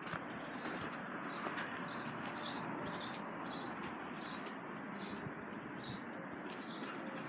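A bird chirping over and over, about two or three short falling chirps a second, over a steady rushing background noise.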